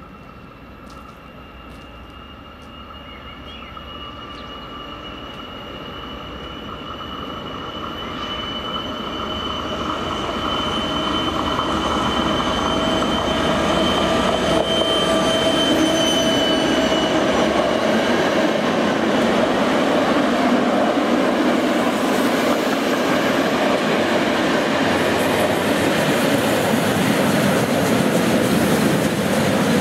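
A DR class 132 'Ludmilla' diesel locomotive, with its 16-cylinder two-stroke Kolomna engine, approaching with a train and running past. The engine's tone grows steadily louder over about the first fifteen seconds. Then it stays loud as the locomotive and coaches roll by.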